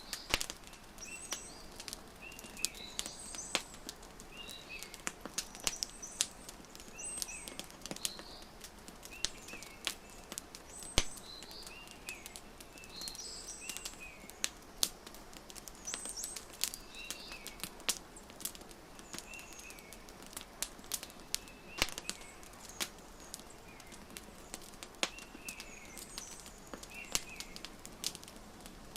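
Wood fire crackling, with sharp irregular pops, while small birds give short high chirps every second or two.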